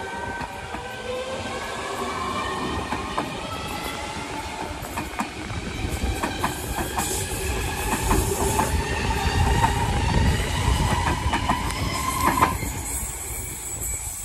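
Electric suburban train running through the station: its motors whine in several tones that slowly glide in pitch over a rumble, with wheels clicking over rail joints. It grows louder toward the middle, and the whine cuts off about twelve seconds in.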